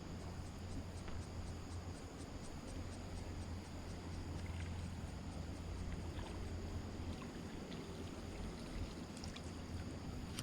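Creek water running with a steady low rumble, with a faint fast high ticking, about three or four a second, over the first few seconds.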